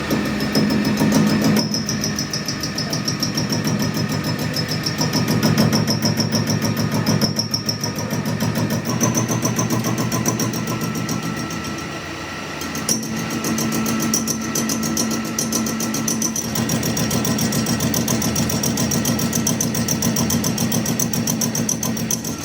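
A machine running steadily, with a fast even pulsing, a high whine and a low hum; it eases off about halfway through, then picks up again.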